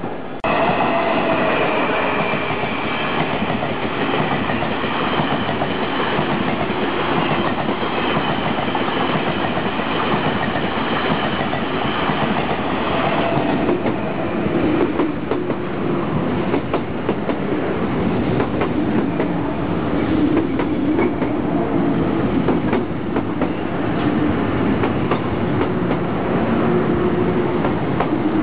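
Taiwan Railways electric train running along the station platform: steady wheel-on-rail noise with frequent short clicks, louder from about half a second in.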